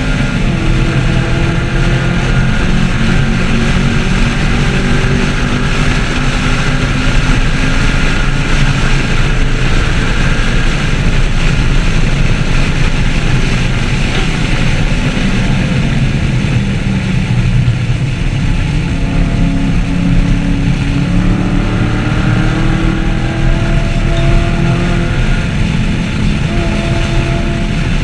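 2014 Camaro 1LE's V8 engine running hard on a race track, over road and wind noise. Its pitch drops near the start, sags around the middle and then climbs again as the car accelerates.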